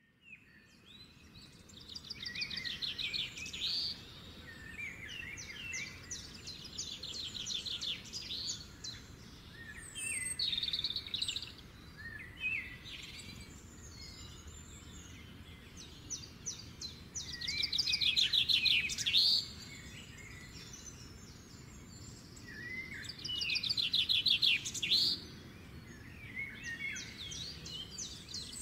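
A songbird singing in phrases of fast, high trills and chirps every few seconds, with a faint steady hiss underneath.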